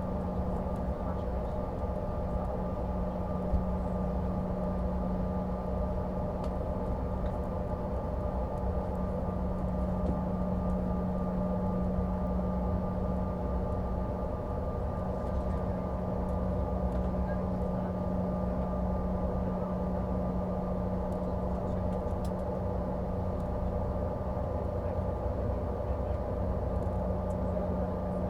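Steady cabin noise of a CRJ-550 regional jet, heard inside the cabin: the rear-mounted General Electric CF34 turbofans running evenly, with a constant low hum and a fainter steady whine over a broad rush of air.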